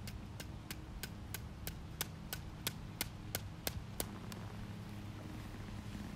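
A regular series of sharp clicks, about three a second, stopping about four seconds in, over a low steady hum.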